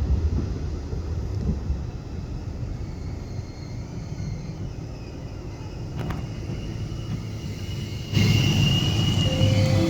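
Train running in a station: a steady low rumble, turning suddenly louder about eight seconds in, with high thin squealing tones over it.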